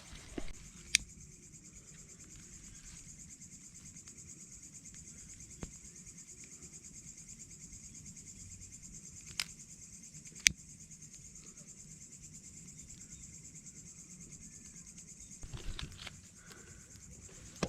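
Night insects chirring steadily in a high, fast-pulsing drone, with a few sharp clicks standing out above it.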